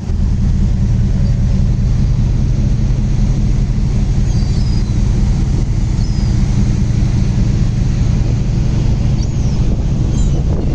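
Steady low rumble of a ship under way and wind on the microphone, with a few faint, short high calls of seagulls flying alongside.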